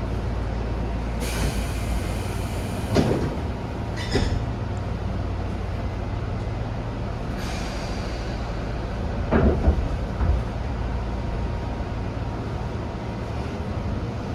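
Tobu 10000 series electric commuter train running, heard from inside the car: a steady low rumble of wheels on rail. Sharp clacks over rail joints come about three and four seconds in and twice around nine to ten seconds, with two brief stretches of high hiss.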